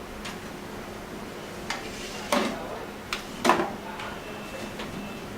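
Anti-static wrist strap and its clip being handled and fitted against the metal PC case: a few separate light metallic clicks and knocks, the loudest about two and three and a half seconds in.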